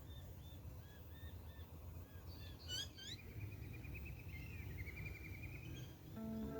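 Birds calling outdoors over a low steady rumble: a run of short repeated chirps, then a loud sweeping call about three seconds in, followed by a trill lasting a few seconds. Guitar music comes in just before the end.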